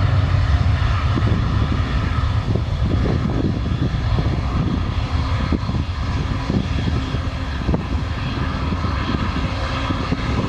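Boeing 737-800's jet engines running steadily at takeoff power: a loud, steady rumble with a faint whine on top, as the airliner climbs away.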